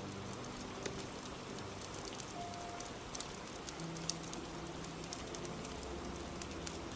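Steady rain hiss with scattered sharp crackles and pops from a fire. Faint sustained soft music notes sit underneath.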